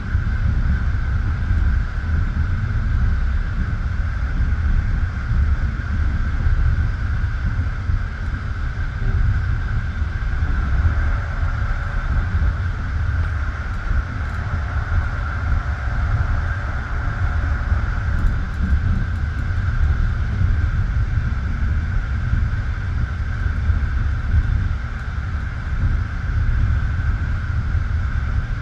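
A passenger train coach running between stations, its wheels rolling on the rails with a steady low rumble and a constant hiss-like band of noise above it.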